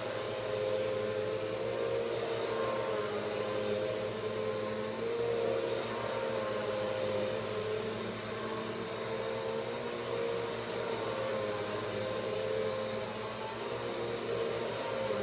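Vacuum cleaner running steadily: a constant motor hum with a thin, high, steady whine over it.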